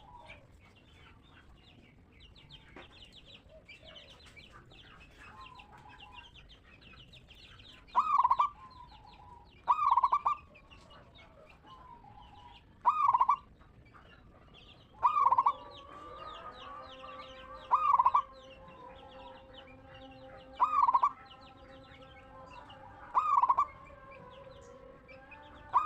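Zebra dove (perkutut) cooing: short loud coos repeated about every two to three seconds, starting about a third of the way in, over faint chirping of small birds.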